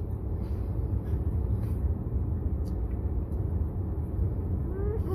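Steady low rumble of a car's running engine heard from inside the cabin, with a few faint clicks.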